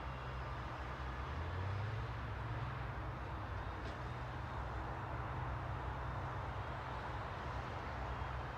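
Steady ambient road noise: a constant low rumble of vehicle traffic with a hiss above it.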